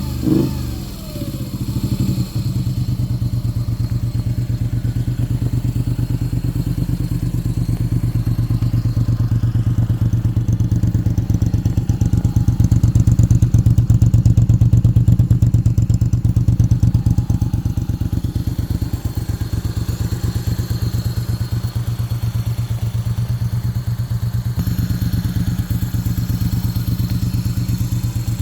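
Moto Guzzi V35's air-cooled 90-degree V-twin idling with an even beat, its revs dropping back to idle in the first couple of seconds.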